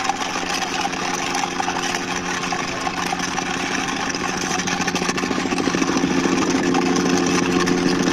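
Steady engine-like drone with a hiss over it while a toy army helicopter is driven by hand. It grows a little louder over the second half.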